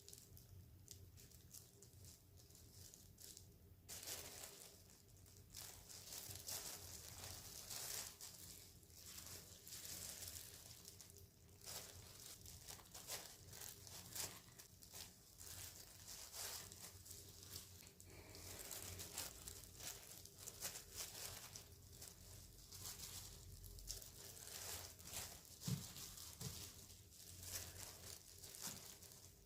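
Faint crinkling and rustling with many small clicks and taps, as of things being handled by hand; it grows livelier about four seconds in.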